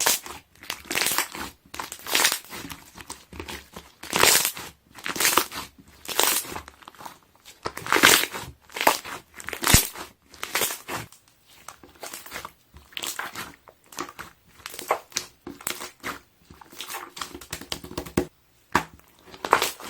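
Slime being pressed and squeezed by hand, its trapped air bubbles popping and crackling in quick irregular bursts.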